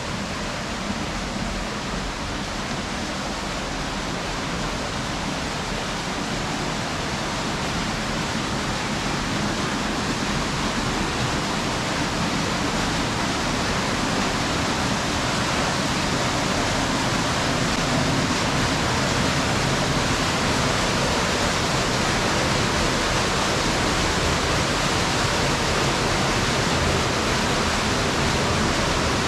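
Rushing water of the Alviela river, a steady, even rush that grows slightly louder.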